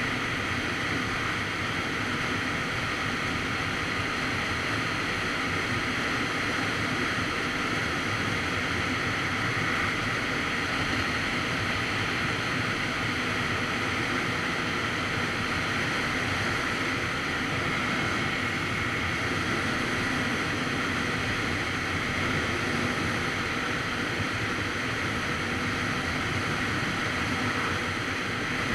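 Steady wind rush over the microphone while riding a Kawasaki Z900RS Cafe, with the motorcycle's inline-four engine running underneath at an even pace.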